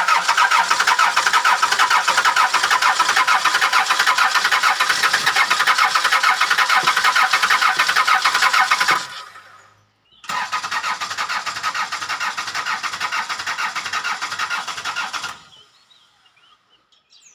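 Starter motor cranking a worn Toyota 2C four-cylinder diesel with an even, pulsing chug, in two long tries: about nine seconds, then about five after a short pause. Each try stops without the engine firing: a cold, worn diesel that is hard to start.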